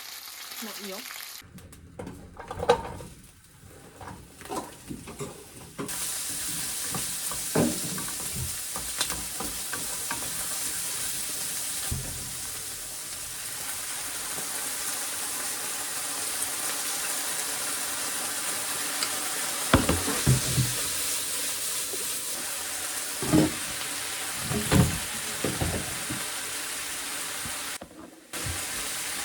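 Food sizzling in a frying pan, a steady hiss, with a utensil now and then knocking and scraping against the pan.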